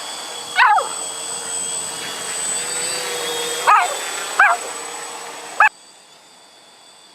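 A dog barking in four short, high yaps over the steady whir of an XAIRCRAFT X650 multirotor's motors and propellers. The whir drops abruptly to a much quieter hum near the end.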